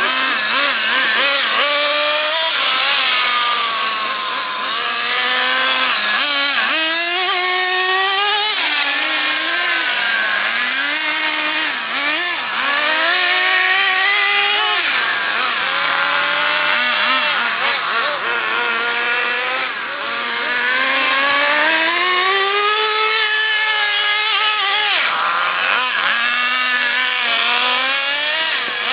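HPI RS4 Evo3 radio-controlled touring car driven around a track, its motor rising in pitch for a few seconds at a time as it accelerates, then dropping off as it slows, again and again.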